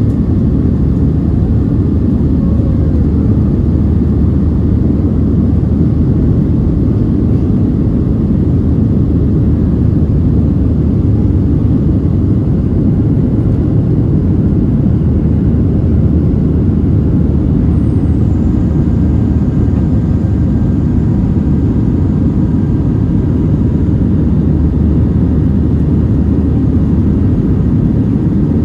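Boeing 737-700 engines and airflow heard from inside the passenger cabin: a steady, loud low rumble that holds an even level throughout.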